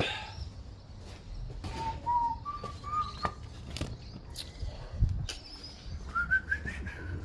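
A person whistling a short tune: a few notes stepping upward in pitch, then after a pause a higher run of notes near the end. A few knocks and a low thud come in between.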